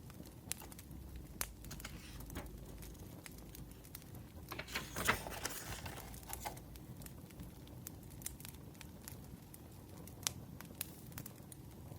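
Wood fire crackling, with sharp pops scattered irregularly. About four and a half seconds in, a burst of paper rustling and crinkling lasts about two seconds.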